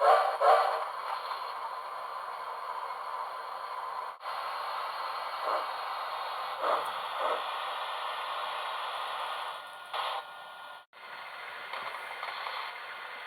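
HO-scale model train running on track: a steady rattling rush of wheels on rail with a few louder clicks. The sound drops out briefly twice.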